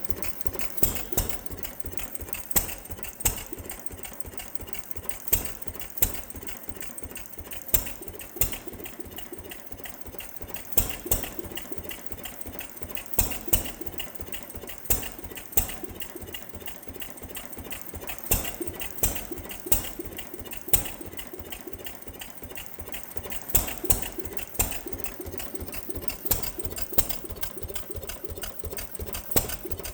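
2 HP Witte sideshaft stationary gas engine running, with fast steady mechanical clicking. Sharp louder bangs fall every second or two at uneven intervals.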